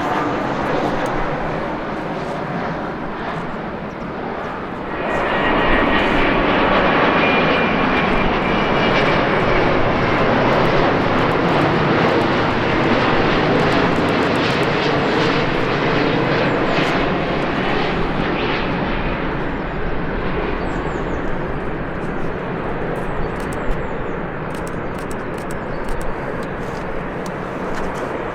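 Jet airliner's engines running loudly as it passes: a rushing roar that swells suddenly about five seconds in, with a thin high whine over it for a few seconds, then slowly fades.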